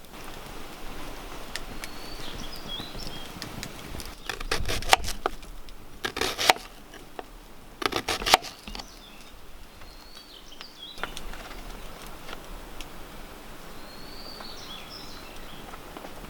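Outdoor ambience with a steady hiss and a bird chirping three times, broken by three short bursts of sharp crackling clicks about four, six and eight seconds in.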